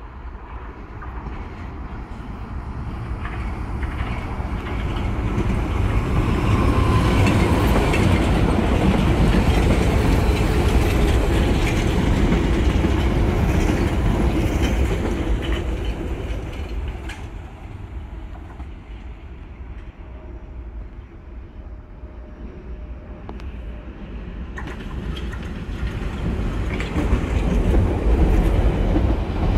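London Underground 1973 tube stock train running past with rumbling wheel and rail noise and clicking over the rail joints, growing louder over the first several seconds and fading after about fifteen. The rumble rises again near the end as a train moves close by.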